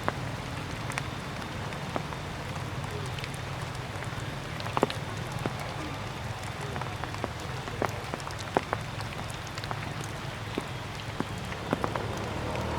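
Rainwater dripping from the trees after a shower: irregular, sharp drops landing on leaves and ground, over a steady low background hum.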